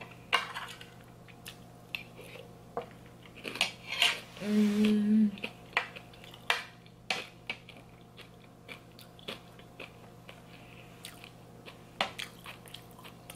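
Close-up mouth sounds of chewing macaroni and cheese, with small clicks of a metal fork against the plate. About a third of the way in, a brief hummed voice sound.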